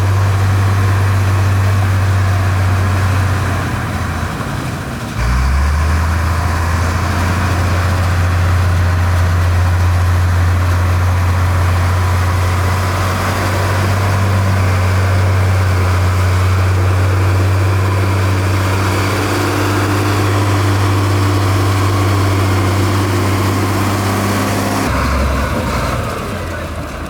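Heavy diesel engine of construction machinery running steadily with a deep, even drone. Its pitch shifts abruptly about five seconds in and again near the end.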